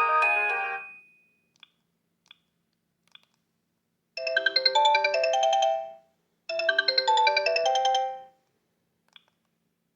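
Sony Ericsson K750i preloaded polyphonic phone tones. One melody fades out about a second in, then after a few faint clicks a short multi-note jingle plays twice, each time for just under two seconds.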